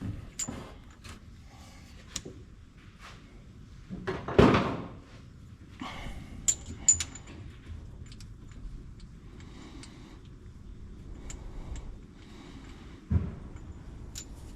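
Hand tools and parts being handled during engine work: scattered light metallic clicks and clinks, with a heavier knock about four seconds in and another near the end.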